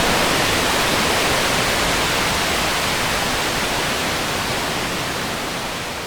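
Waterfall rushing as a steady, loud roar of falling water, gradually fading out near the end.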